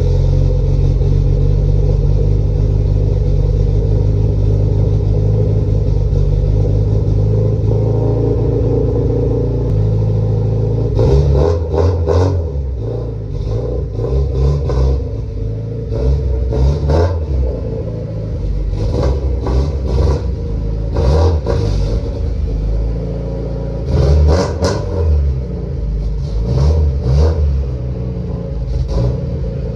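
Mitsubishi Lancer Evolution VIII's turbocharged 4G63 inline-four heard through a Buschurs 3-inch catback exhaust. It idles steadily for about the first ten seconds, then revs up and drops back repeatedly, with several louder surges.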